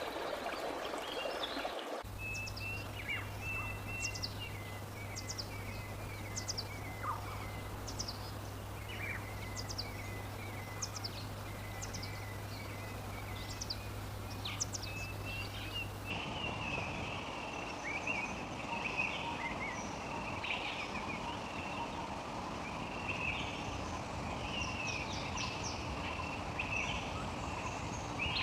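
Wild birds singing and calling outdoors: repeated short, high, falling whistles about once a second over a chattering trill, with a steady low hum behind them. About halfway through, this gives way to a busier mix of chirps over background noise. A rushing noise fills the first couple of seconds.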